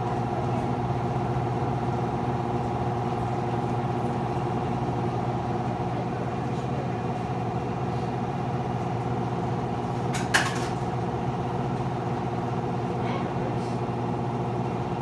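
Whirlpool front-load washer running with a steady, even hum, the noise it makes during its spin and drain cycle. A single sharp knock about ten seconds in.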